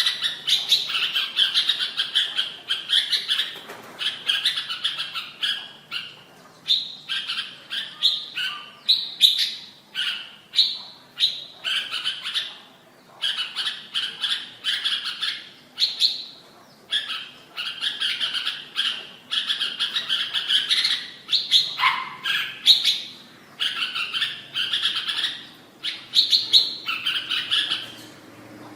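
Red-whiskered bulbul singing: quick runs of short, bright chirps, broken every second or two by brief pauses.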